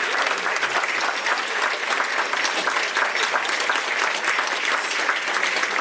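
An audience clapping and applauding steadily, a dense patter of many hands.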